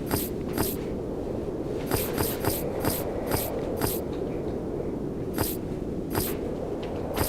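Sharp mechanical clicks, about a dozen at uneven intervals, over a steady low rumble.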